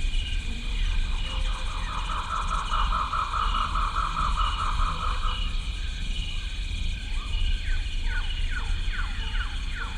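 Rain forest ambience of birds and insects: steady insect shrilling with a regular pulsing note, a bird trilling rapidly for about three seconds, then a run of short falling whistled calls in the last few seconds, over a low hum.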